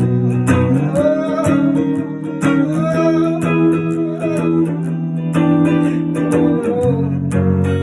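Guitar music without sung words: strummed chords with a wavering melody line above them, an instrumental passage between verses of a song.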